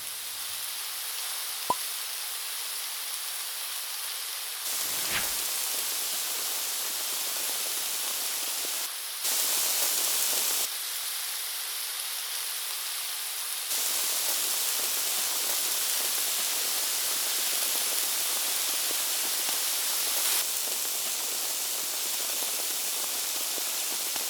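Steady high hissing noise, its level jumping up or down abruptly several times.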